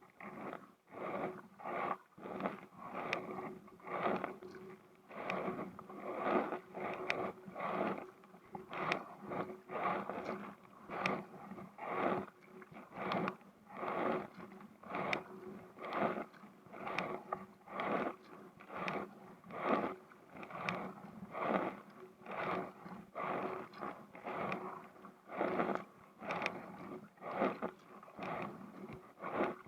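Kayak paddle strokes, about one a second: the blades dip and pull through the water in a steady rhythm.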